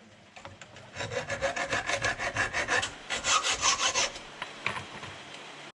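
Rapid rhythmic scraping, about eight strokes a second for some three seconds, loudest near the end of the run, as a part is worked back and forth on an old Husqvarna 136 chainsaw. Lighter handling noises follow.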